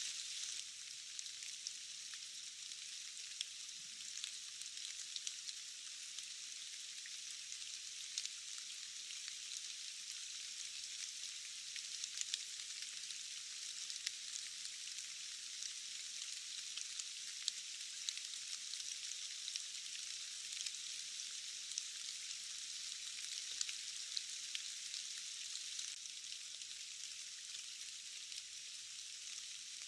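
Steady rain hiss with a dense patter of small drops, heard only in the upper range, as if the low end has been filtered out.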